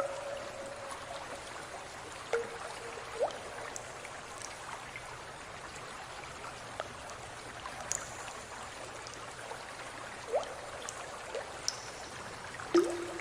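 Water trickling steadily, with a scattering of drips and plops, several of them ringing briefly with a short rising tone.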